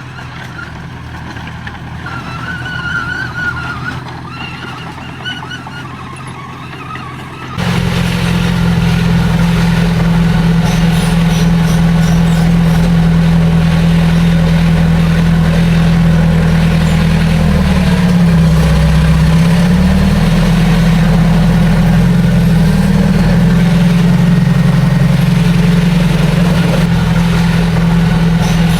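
Heavy diesel engine of earthmoving machinery running loud and steady. It cuts in suddenly about a quarter of the way in, after a quieter stretch with a high wavering whine. Its pitch dips briefly about two-thirds of the way through.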